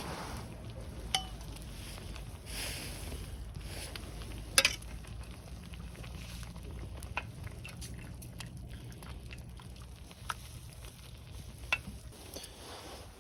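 Camp cooking: a faint steady sizzle with a handful of sharp clicks, the loudest about halfway through, like a utensil knocking on cookware.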